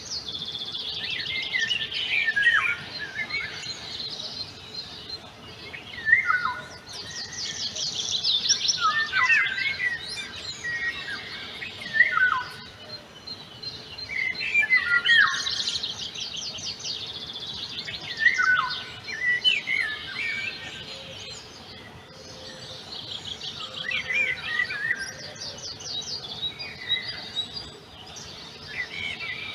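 Songbirds singing outdoors: short song phrases of fast trills and downward-sweeping notes, repeated every few seconds, over a faint steady hum.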